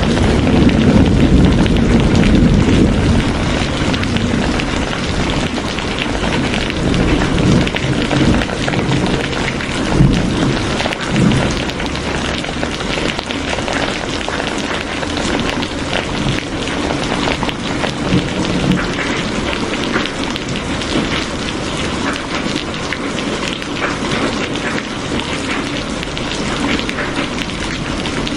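Steady rain falling, a dense hiss of drops. A low rumble sits under it at the start and fades over the first few seconds, and there are a couple of brief louder patters about a third of the way in.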